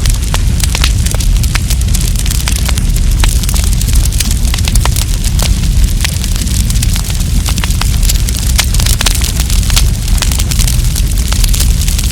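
Wood campfire burning: a dense, irregular stream of crackles and sharp pops over a steady low rumble.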